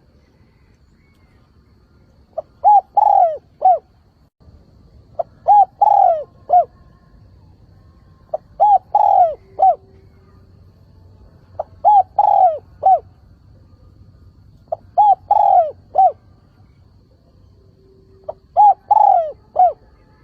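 Spotted dove cooing its calling song: six phrases about three seconds apart, each a soft short lead note followed by three rounded coos, the middle one the longest.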